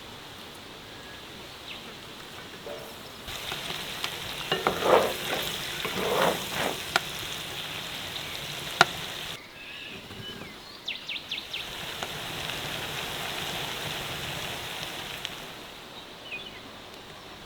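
Food sizzling as it fries, a steady hiss with occasional clinks and one sharp, loud click partway through.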